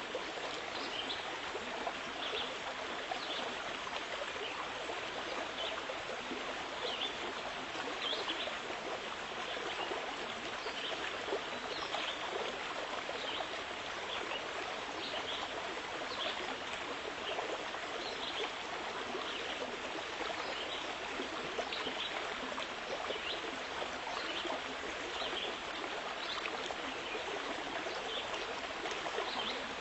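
Running water, a steady babbling flow with small splashes throughout.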